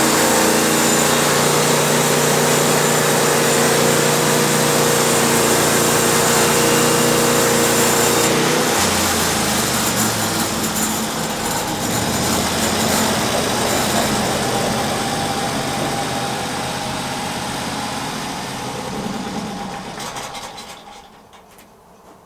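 Sawmill engine running steadily at speed. About eight seconds in its pitch drops as it is throttled down, and it runs on with a rougher, noisier sound before fading out near the end.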